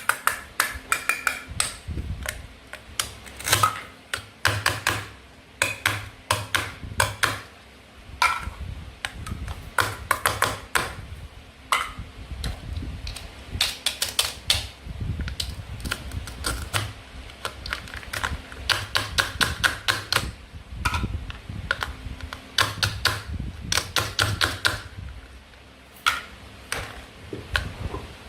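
Toy play food being cut apart and handled, making rapid clusters of sharp plastic and wooden clicks and taps.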